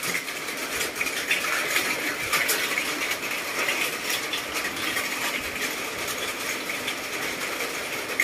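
Steady rain falling, with a dense, irregular patter of light ticks.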